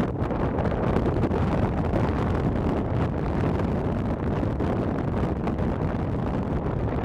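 Wind buffeting the microphone outdoors: a steady, rough low rumble with no distinct engine or horn.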